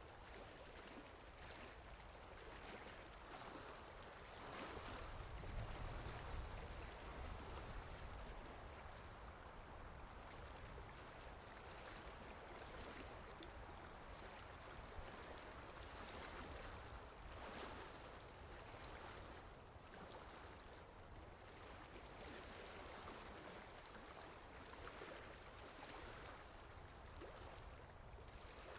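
Steady rain falling, an even hiss, with a low rumble swelling for a few seconds about five seconds in.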